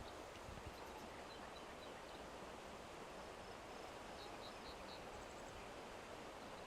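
Steady outdoor ambient hiss with a few faint, short, high bird chirps, including a quick run of four about four seconds in.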